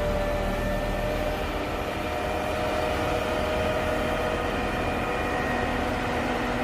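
Snowplow engine running steadily, a constant drone with a low rumble.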